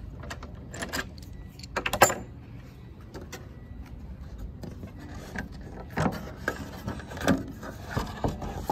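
Clamp and wooden guide being handled and fitted to a track saw rail: scattered clicks and knocks, with a quick rattle of clicks about two seconds in as the loudest, and more knocks near the end.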